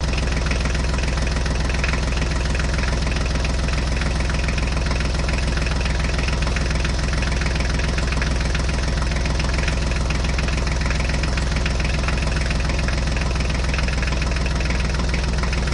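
Tractor engine idling steadily. It cuts in suddenly and holds at one even pitch, with no revving, like a recorded engine sound laid over the toy footage.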